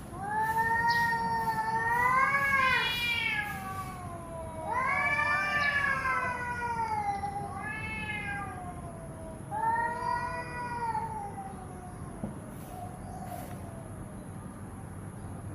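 A cat yowling: four long, drawn-out wavering calls that rise and fall in pitch, the last dying away a little past the middle.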